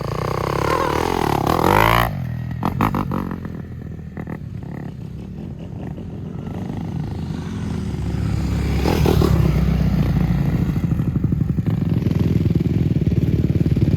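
Dirt bike engine revving, its pitch sweeping up and down, then dropping away suddenly about two seconds in with a few knocks. From about eight seconds in the engine grows louder again with a steady, rapid running note.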